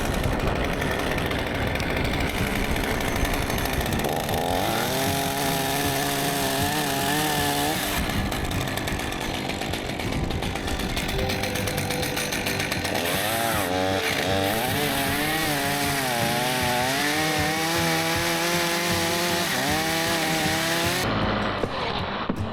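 Gasoline chainsaw running and cutting limbs, its engine pitch rising and falling as it bogs under load and revs back up, over steady wind noise.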